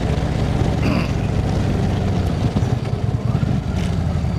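Indian motorcycle's V-twin, fitted with Freedom exhaust pipes and stage 2 cams, running steadily while riding along.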